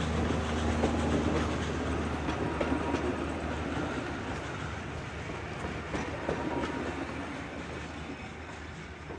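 Heritage steam train rolling past, its wheels clicking over the rail joints, growing fainter as it moves away.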